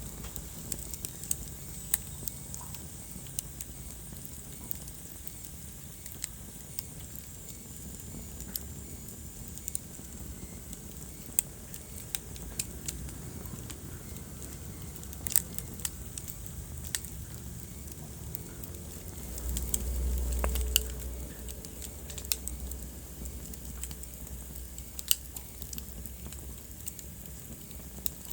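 Wood fire in a fireplace crackling, with sharp pops at irregular intervals over a low rumble of burning; the rumble swells for a couple of seconds about two-thirds of the way through.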